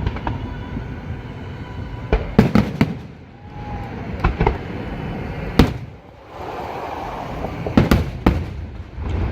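Aerial fireworks bursting: sharp bangs coming in small clusters every second or two, the loudest about halfway through, over a steady low rumble.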